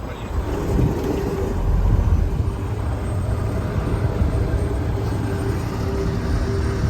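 Car hauler truck's engine running steadily while driving, a low even drone with road noise.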